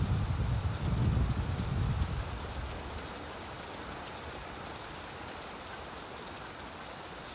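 Steady rain, with a low rumble of thunder that dies away in the first two or three seconds.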